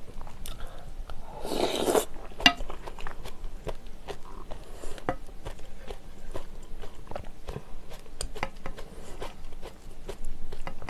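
Close-miked chewing of spicy chadol jjamppong noodles and rice, with many small wet mouth clicks. A short slurp comes about a second and a half in, and a sharp click a second later.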